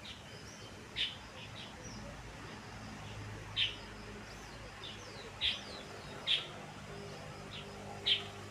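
Birds chirping in short, sharp calls every second or two, over a faint steady low hum.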